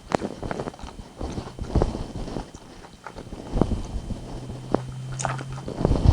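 Close-miked chewing and biting of rotisserie chicken: irregular wet mouth clicks and smacks.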